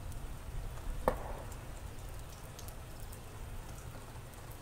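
Steady rain falling on wet ground, with a low rumble beneath it and one sharp tap about a second in.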